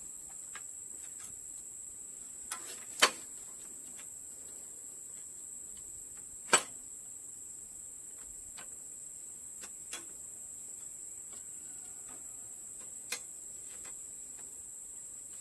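A few sharp, isolated metallic clicks and knocks of tools and engine parts being handled, the two loudest about three and six and a half seconds in. Behind them is a steady, high-pitched chirring of insects.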